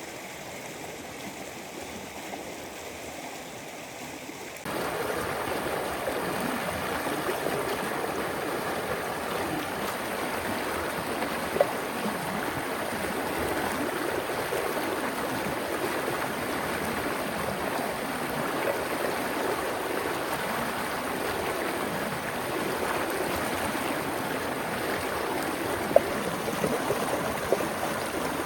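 River water rushing and gurgling steadily, abruptly louder about five seconds in. A few brief sharp clicks stand out near the middle and near the end.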